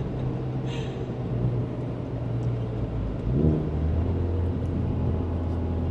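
Car engine and road noise heard from inside the cabin while driving: a steady low drone, with a short rise in engine pitch about three and a half seconds in, after which it runs on at a lower pitch.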